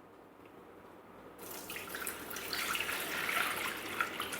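Water pouring into the Thermomix mixing bowl. It starts about a second and a half in and grows louder as it runs.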